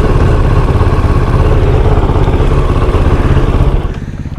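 Kove 450 Rally's single-cylinder engine running, then falling to a quieter, steady idle near the end.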